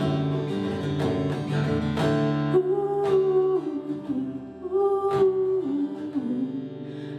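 Instrumental break: acoustic guitar strummed in slow chords, with a held melody line sliding between notes over it from about two and a half seconds in.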